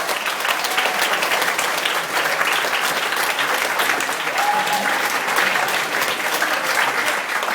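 Audience applauding: dense, sustained clapping, louder than the narration that came before it.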